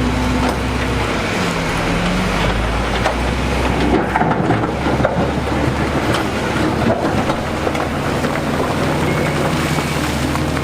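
Diesel engine of heavy construction machinery running steadily, with scattered knocks and clatter in the middle.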